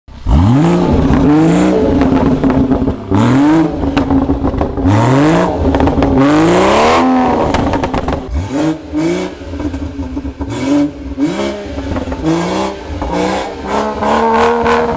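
Car engine idling steadily and revved in repeated throttle blips through its exhaust. There are about five big revs in the first half, the biggest at around six seconds, then a run of shorter, lighter blips.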